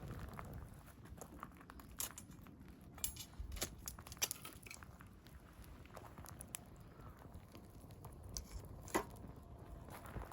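Dead-wood campfire crackling, with irregular sharp snaps and pops over a low rumble.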